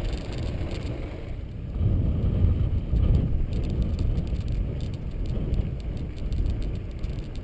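Mountain bike being ridden along a road: a fluctuating low rumble of wind on the microphone and tyre noise, with faint fine rattling higher up from about halfway through.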